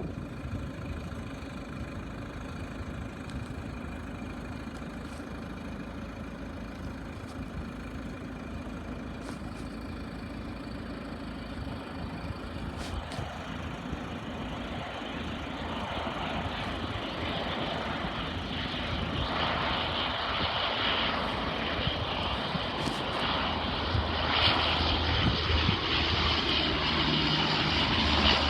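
Airliner engines heard as the aircraft approaches, a steady rushing noise that grows gradually louder through the whole stretch.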